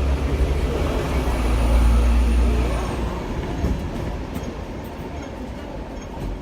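Hong Kong tram running, heard from on board: a low rumble with rattling noise that drops away about halfway through, leaving a quieter steady running noise.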